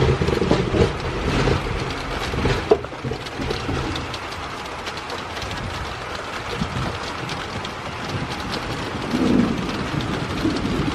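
Heavy rain pouring down steadily as the downpour arrives, with a low rumble in the first few seconds.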